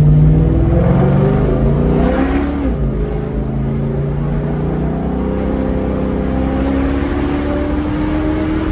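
2004 Ford Mustang's engine through an SLP Loudmouth cat-back exhaust, climbing in pitch as it accelerates, falling back about two and a half seconds in, then climbing slowly again.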